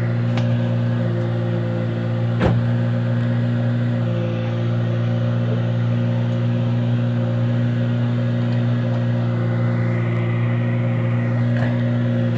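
Daewoo Lanos engine running at a steady speed, with one sharp click about two and a half seconds in.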